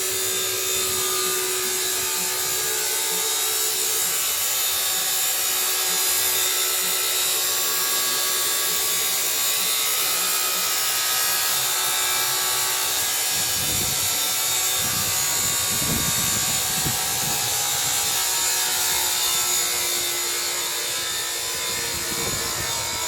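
Steady, high-pitched whirring hiss of workshop machinery, with a few low bumps past the middle.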